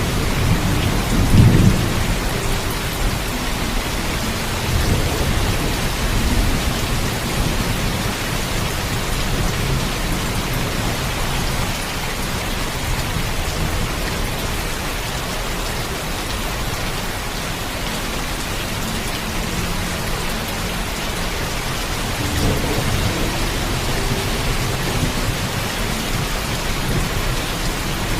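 Heavy rain falling steadily, with low thunder rumbling under it. The loudest rumble comes about a second and a half in, and weaker rolls follow around five seconds and again past twenty seconds.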